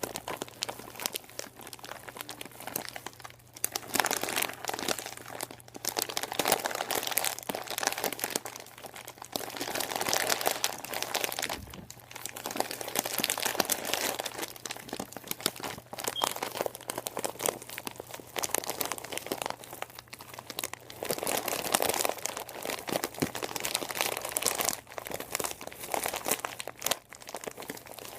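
Crinkly material crumpled and crinkled by hand, a dense irregular crackling that swells and eases in waves, over a faint steady low hum.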